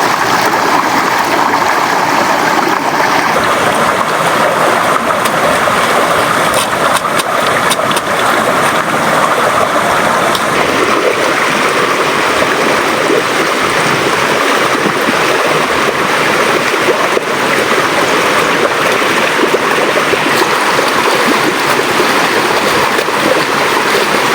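River water flowing: a steady, loud rush of moving water.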